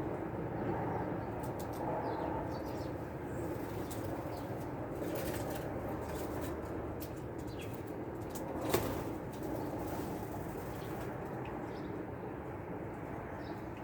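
Small songbirds coming and going: short wing flutters and clicks with a few faint high chirps over a steady outdoor background hiss, and one sharp tap about nine seconds in.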